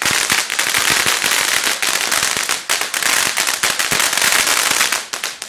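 Fireworks crackling: a loud, dense run of rapid sharp pops that dies down near the end.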